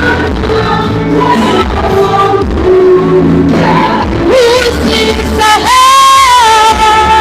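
Church worship music: a lead singer over a band with a steady bass line, holding one long note near the end.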